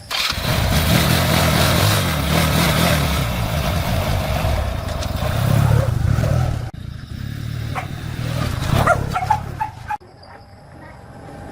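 Motorcycle engine running, loudest through the first seven seconds, then quieter.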